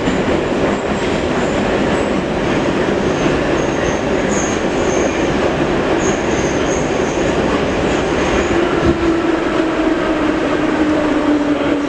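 Metro train running through a tunnel, heard from inside the car: a steady loud rumble of wheels on rails. A thin, high wheel squeal comes and goes in the middle. Over the last few seconds a motor whine falls in pitch as the train slows.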